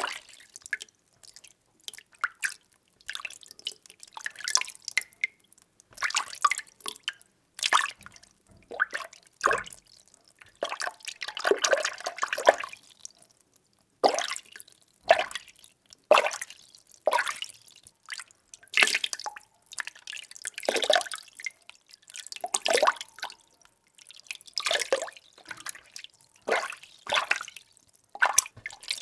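Water being stirred by hand in a container: irregular sloshing and dripping strokes about once a second, with a longer, busier swirl about halfway through.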